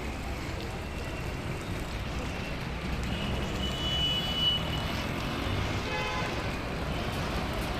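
Steady road traffic noise with engine rumble, and a vehicle horn sounding once for about a second and a half near the middle.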